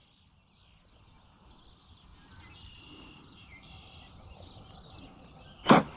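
Faint outdoor background noise with a few thin, high bird chirps, and one sharp click near the end.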